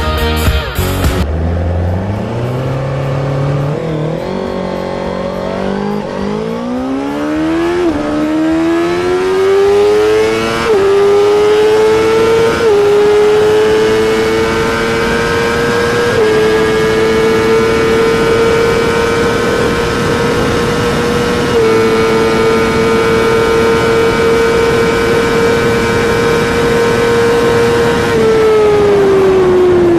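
1000 cc superbike engine accelerating hard at full throttle through the gears. The pitch climbs and drops at each upshift, with the shifts coming further apart as speed builds. The engine then holds high near top speed and falls away as the throttle is rolled off near the end.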